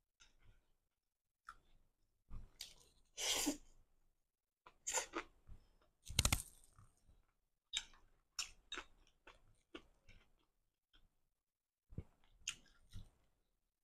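A person chewing a mouthful of stir-fried flat rice noodles, with irregular short wet bursts and clicks, louder around three and six seconds in.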